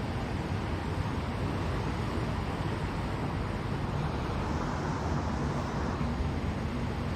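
Steady rushing outdoor noise with a low rumble and no distinct events.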